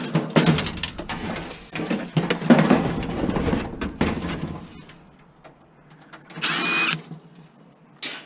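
Clattering and knocking of scrap parts being handled and moved about, dense for the first few seconds, then a short rushing scrape about six and a half seconds in and a single knock near the end.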